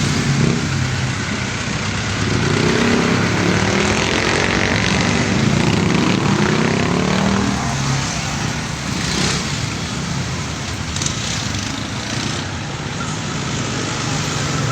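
Motorcycle engine running on the move over road and wind noise. Engine pitch sweeps up and down for several seconds in the middle.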